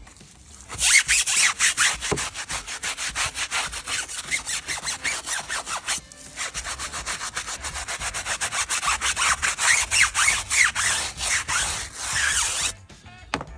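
A soft-bristled wheel brush scrubbed rapidly back and forth over a wet car wheel, a quick run of rasping strokes with faint squeaks. It pauses briefly halfway through and stops shortly before the end.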